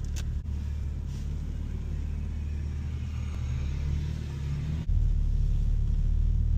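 BMW G82 M4 Competition's S58 twin-turbo straight-six running at low speed with a steady low rumble. The note rises slightly near four seconds, then drops abruptly into a heavier, deeper drone at about five seconds.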